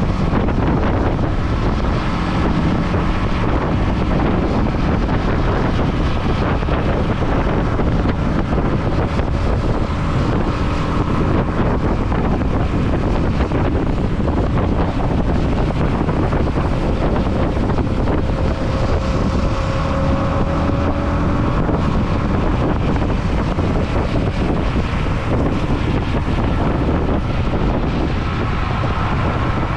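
Motorcycle ridden at road speed: heavy, steady wind rush on the camera microphone over the engine running.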